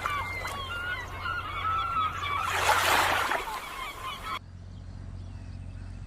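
A flock of birds giving short, wavering honking calls, with a brief rush of noise around the middle. About four seconds in the sound drops abruptly and the calls become faint.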